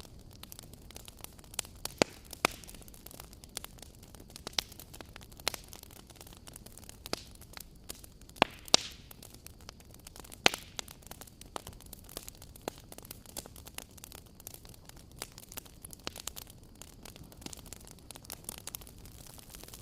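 Wood fire burning with a steady hiss and irregular sharp crackles and pops, a few of them louder, about a third of the way through and again about halfway.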